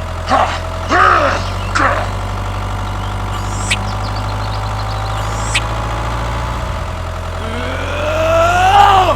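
Toy tractor's engine sound running at a steady low idle hum. A few short high calls come in the first two seconds, and near the end a pitched whine rises and then falls.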